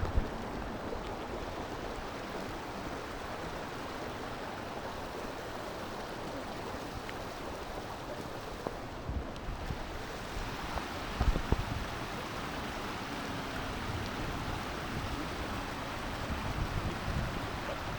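Waterfall and river water rushing steadily, with a few brief low thumps on the microphone about eleven seconds in.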